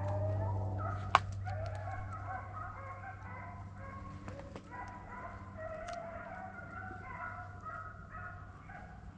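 A pack of deer hounds baying and bawling together while running a deer, many voices overlapping without a break. A single sharp click cuts in about a second in.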